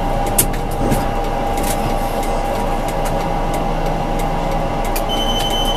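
Tram running along its track, heard from the driver's cab: steady running noise with scattered clicks from the rails. A high steady tone starts near the end.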